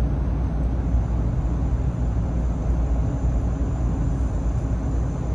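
Steady low rumble of cabin noise inside a Taiwan High Speed Rail passenger carriage.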